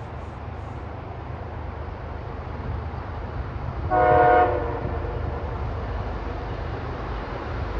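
Approaching diesel freight locomotive, a steady low rumble growing slowly louder, with one short chord blast of its air horn about four seconds in.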